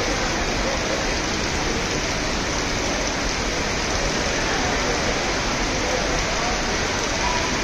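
Heavy monsoon rain falling steadily, a constant hiss, with faint voices from a crowd under it.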